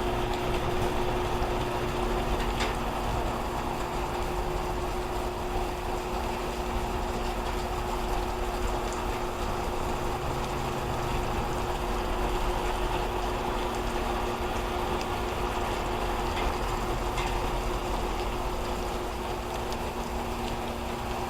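Steady heavy rain falling and splashing, an even hiss with faint scattered ticks, and a steady low two-note hum underneath.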